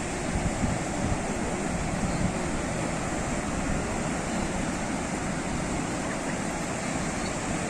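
Sea waves washing on a shore: a steady rushing surf, heaviest in the low end, with no single wave standing out.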